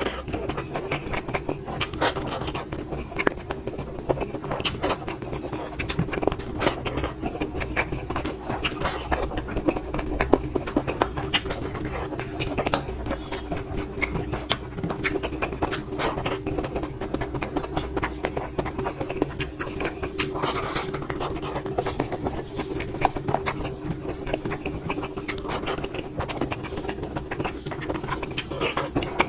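Close-up eating sounds: wet chewing, lip smacks and clicks as rice and curry are eaten, scattered irregularly over a steady hum.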